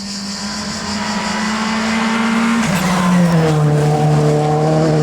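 Rally car engine held at high revs with a steady note. About two and a half seconds in, the note drops lower and gets louder, then holds steady.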